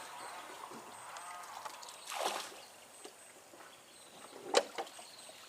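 Faint water splashes, two of them a couple of seconds apart, the second one sharper and louder, with a faint voice about a second in.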